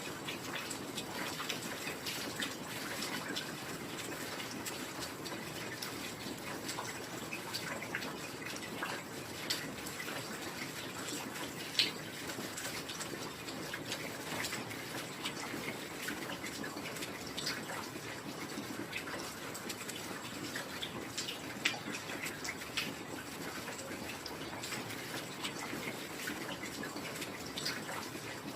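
Heavy rain falling steadily: a dense, even patter of drops, with a couple of louder single drips partway through.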